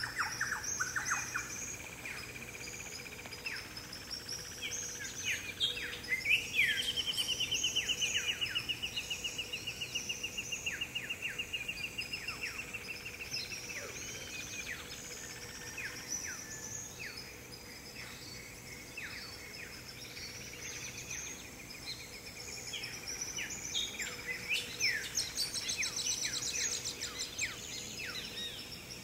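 Several birds calling and chirping. About six seconds in, one bird gives a long rapid trill that slowly drops in pitch and lasts about seven seconds.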